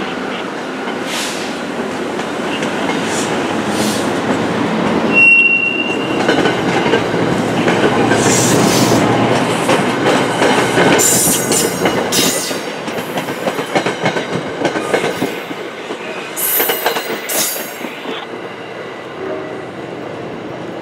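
NJ Transit Comet V passenger cars rolling past at speed, wheels clacking over rail joints, with a brief high wheel squeal about five seconds in. The rumble fades as the last car clears the station.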